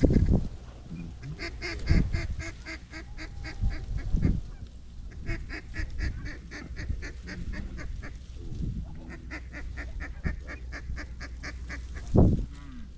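Goose honking and clucking in quick, even runs, several seconds at a time, as a flock of small geese works toward the decoys. A few low thumps stand out near the start, about 2 and 4 seconds in, and near the end.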